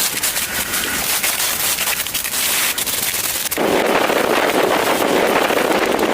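Snowstorm wind noise, full of fine crackling at first, then changing suddenly about three and a half seconds in to a deeper, steady rush.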